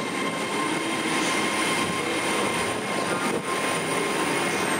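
A train moving through the station: a steady running noise with a thin high-pitched whine that drops in pitch near the end.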